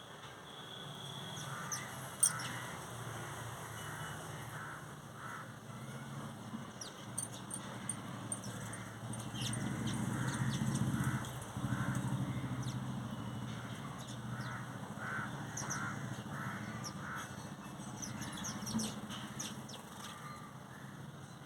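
Crows cawing over and over in a run of short, harsh calls, under a low steady hum that swells in the middle.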